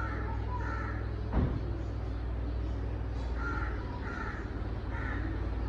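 Repeated short bird calls, several in quick pairs, over a steady low rumble, with a single sharp knock about a second and a half in.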